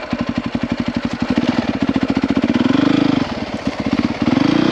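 450cc four-stroke single-cylinder dirt bike engine running at low revs, its separate firing pulses clearly heard, revving up briefly about three seconds in and again near the end.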